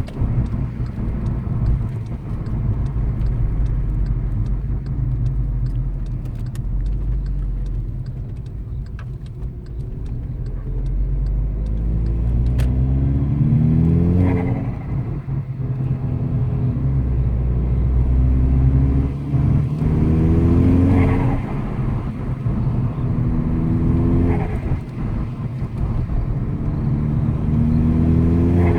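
Stage 2 Golf 6 GTI's turbocharged 2.0-litre four-cylinder pulling through the DSG gears from inside the cabin. The revs climb and drop several times in the second half, with a short burst of dump-valve release and turbo flutter from the GFB DV+ at each drop. Wind noise comes through the slightly open windows.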